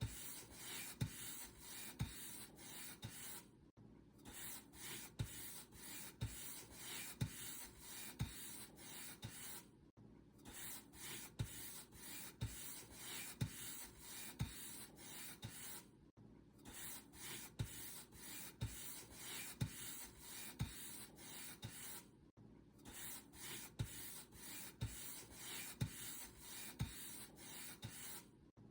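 Paintbrush bristles stroking across a surface, short scratchy brush strokes repeating about twice a second, with a brief pause every six seconds or so.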